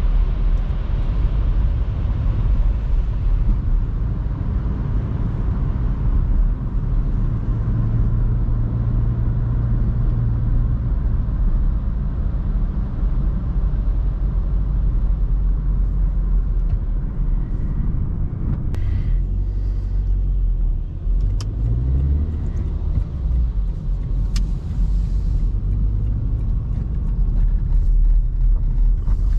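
The 1.4-litre four-cylinder petrol engine of a 2005 Opel Meriva running while the car is driven, heard from inside the cabin as a steady hum over road noise. The engine note shifts in pitch a little over two-thirds of the way in, and a few sharp clicks come in the second half.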